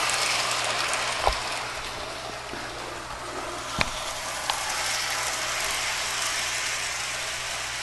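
Model train running on its track: a steady rolling hiss with a few short clicks.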